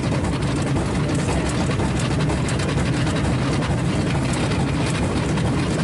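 Steady low rumbling noise with no breaks or distinct events.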